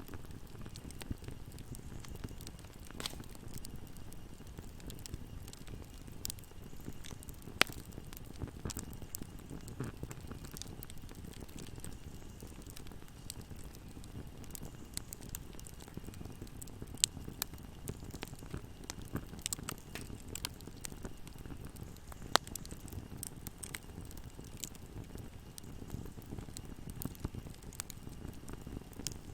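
Wood fire burning in a fireplace: a low steady rumble of flames under constant crackling, with scattered sharp pops, three of them much louder than the rest.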